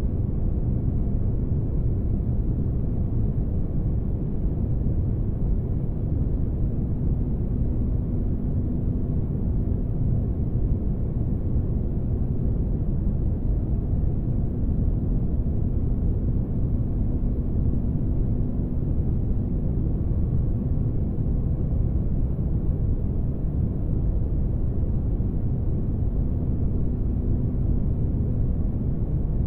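Spaceship-interior ambience: a steady, deep rumbling noise with no breaks, heaviest in the low end, with a faint steady hum that fades for a few seconds in the middle.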